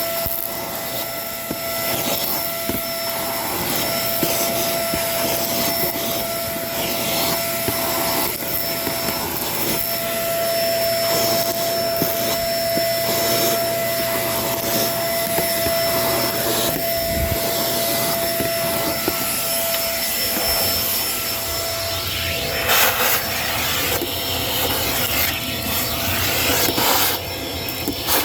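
Kenmore vacuum cleaner running steadily with a constant high motor whine and airflow hiss, picking up debris in scattered crackles that come thicker in the last few seconds.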